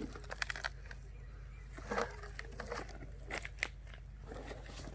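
Dry twigs and leaf litter crunching and cracking in scattered light snaps, a few sharper cracks among them.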